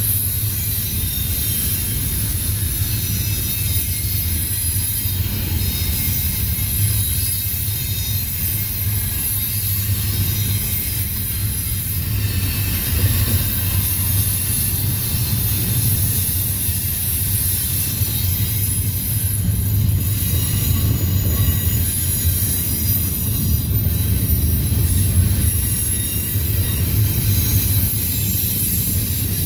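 Double-stack intermodal freight train's well cars rolling past, a steady rumble of steel wheels on rail with thin, faint, high-pitched wheel squeal over it.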